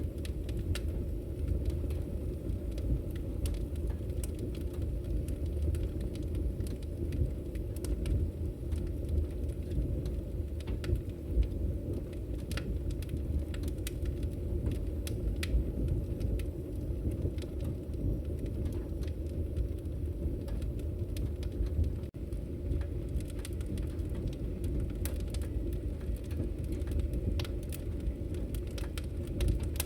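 Wood fire burning: a steady low rumble with scattered sharp crackles and pops of the burning logs.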